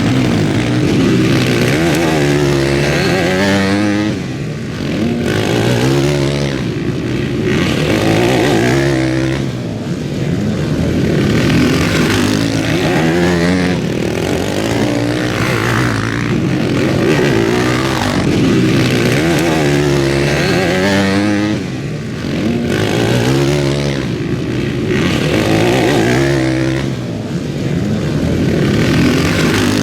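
Several motocross bikes racing, their engines revving up through the gears and backing off again and again, with bikes passing one after another.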